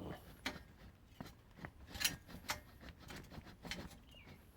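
Faint, irregular clicks and light taps, about a dozen spread unevenly, the loudest a pair about two and two and a half seconds in.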